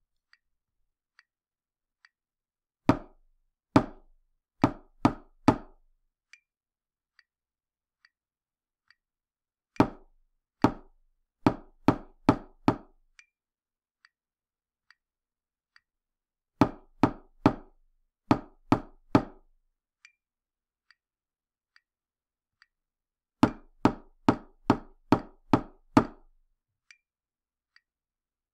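Knocking in repeated groups: two slower knocks, then a quicker run of three or four, the pattern starting again about every seven seconds. A faint light tick sounds about once a second between the groups.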